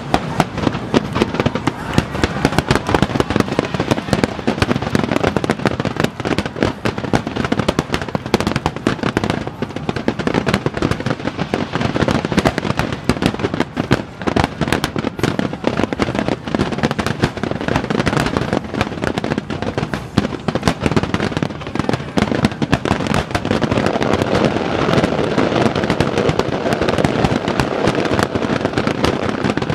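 Fireworks display firing a dense, continuous barrage of aerial shells: rapid overlapping bangs and crackle with no break.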